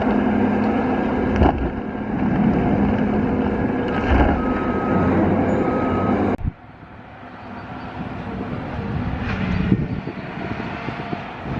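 Caterpillar 552 feller buncher at work: its diesel engine and hydraulics running hard, with a few sharp knocks. About halfway through, the sound drops suddenly, then builds back up with another knock.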